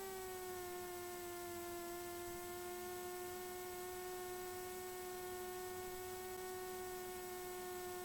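Steady electrical hum in the Cessna 172's intercom audio, a low whine with overtones that sags slightly in pitch about a second in and then holds.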